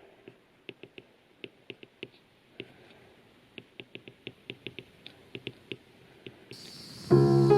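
A string of light, sharp taps and clicks at uneven spacing, a few a second, like small handwork with utensils or objects.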